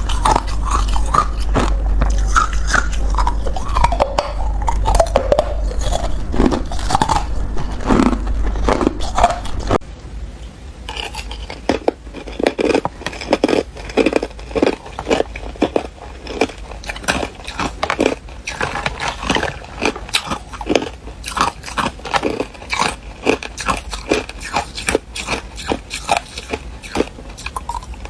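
Ice being bitten and chewed close to the microphone: dense, irregular crunching all through. A low hum sits under the first ten seconds or so and then stops.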